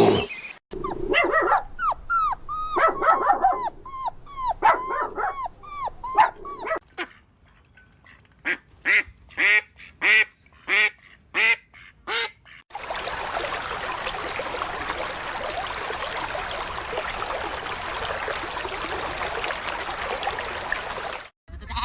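Puppies whimpering and yipping in many quick, high squeals, followed by a run of about eight short, evenly spaced calls. From about halfway through, a steady rushing noise takes over until just before the end.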